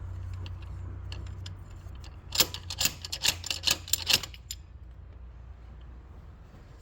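A quick run of sharp metallic clicks and knocks, about ten in two seconds, from hand tools at work on a diesel engine while its injector is being removed.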